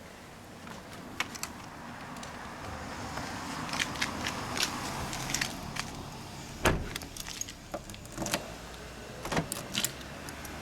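Keys jangling with scattered, irregular clicks and knocks around a car, and one heavy thump about two-thirds of the way through.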